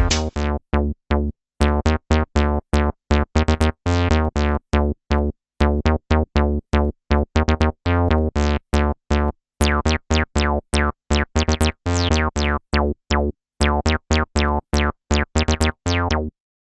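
Behringer TD-3 analog bass synthesizer playing a sequenced acid bassline: a fast run of short, separate low notes, each with a quick downward resonant filter sweep. The pattern stops abruptly near the end.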